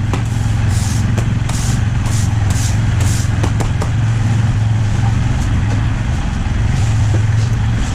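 A motor engine idles steadily with a low, even hum. About six short hisses come in quick succession during the first three seconds.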